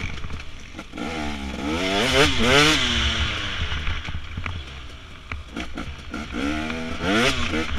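Dirt bike engine revving, its pitch climbing and dropping several times as the throttle is opened and closed, with a second run of revs starting about two thirds of the way through.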